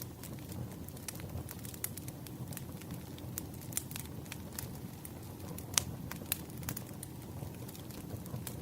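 Wood fire crackling: scattered sharp pops and snaps over a steady low rumble from the burning logs, with one louder pop about two-thirds of the way through.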